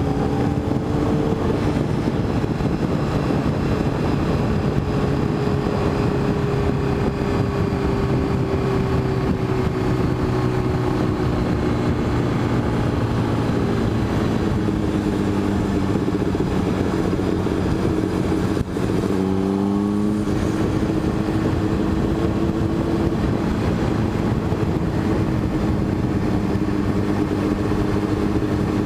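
Motorcycle engine running under way with wind rushing past the microphone; the engine note sinks slowly, breaks off briefly about nineteen seconds in, like a gear change, then picks up again and holds steady.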